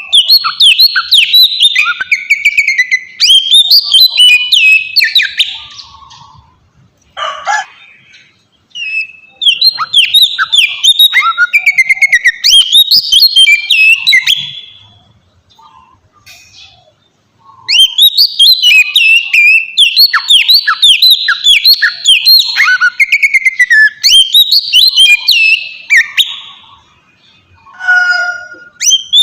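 Oriental magpie-robin (kacer) singing loud, rapid phrases of chirps and whistles in three long bursts separated by short pauses, with a few lower, harsher falling calls in the gaps. This is the bird's challenge song, used as a lure to make other magpie-robins answer.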